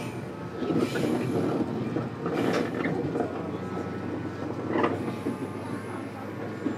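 Stopped electric train at a station platform: a steady electrical hum, with a few short louder bursts of sound over it.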